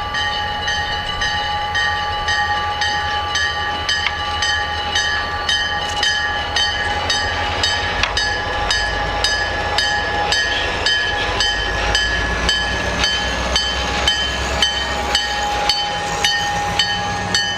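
EMD SD40-2 diesel-electric locomotive with its 16-cylinder two-stroke engine, running by with a deep rumble that swells for several seconds past the middle. A bell rings steadily over it, about two strikes a second.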